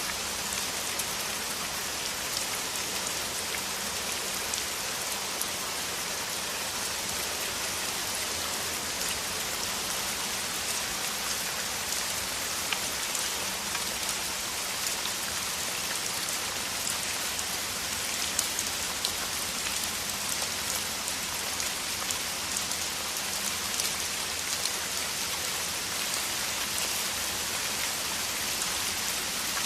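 Downpour of rain falling steadily: a dense, even hiss with many individual drops ticking through it.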